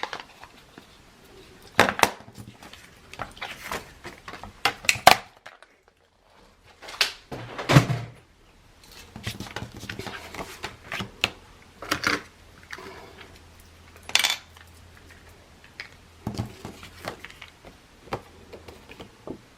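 Irregular clicks, taps and knocks of craft supplies being handled and set down on a tabletop during card making, about a dozen sharp taps spread through the stretch, with a faint low hum in the middle.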